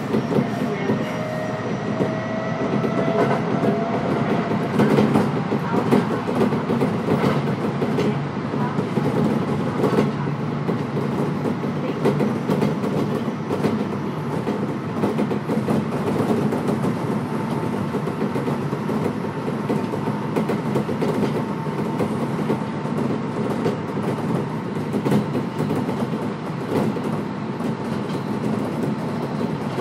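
Running noise inside a Kintetsu electric train car, with wheels clicking over rail joints. A whine rising in pitch over the first few seconds marks the train gathering speed.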